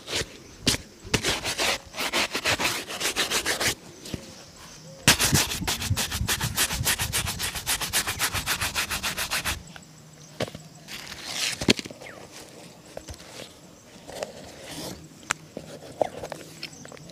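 Shoe being brushed in fast, even back-and-forth strokes during a shoe shine, about seven strokes a second. It comes in two runs, the second longer, followed by scattered light taps and scrapes.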